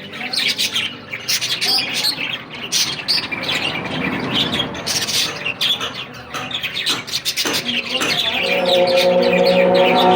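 Birds chirping and squawking in quick, repeated short calls. Near the end a singing voice comes in on a long held note.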